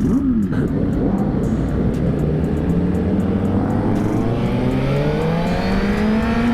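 Sport motorcycle engine accelerating hard, its pitch rising steadily for several seconds, over heavy wind noise on the microphone.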